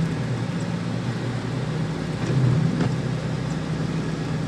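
Jeep TJ engine and road noise heard from inside the cabin while driving: a steady low drone that swells briefly a little past halfway.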